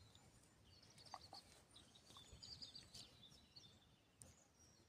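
Near silence outdoors, with faint, distant bird chirps and a few soft clicks.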